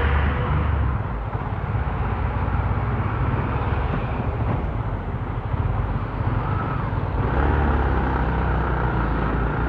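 Motorcycle riding in traffic: engine running steadily under road noise, with a heavier, deeper engine note from about seven seconds in.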